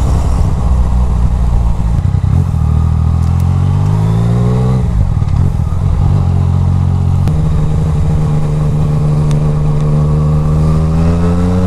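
Yamaha Tracer 900 GT's three-cylinder engine, with an Akrapovic exhaust, pulling through traffic. Its note rises as the bike accelerates for a couple of seconds, drops at a gear change about five seconds in, then climbs steadily again near the end.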